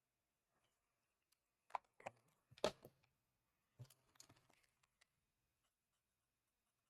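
Near silence broken by a handful of light clicks and taps in the middle, one a little louder than the rest.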